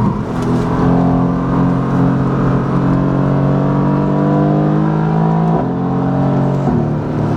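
Mercedes-AMG GT S's 4.0-litre twin-turbo V8 through an Akrapovic titanium Evolution exhaust with its valves fully open, accelerating hard with the engine note rising steadily. The pitch drops suddenly at two upshifts, about three quarters of the way through and again near the end.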